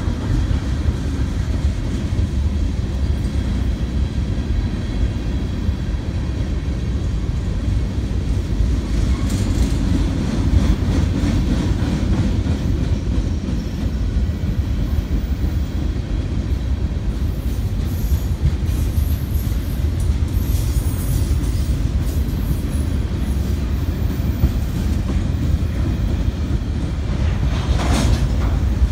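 Steady low rumble from a double-stack intermodal freight train alongside, with a brief sharper screech near the end.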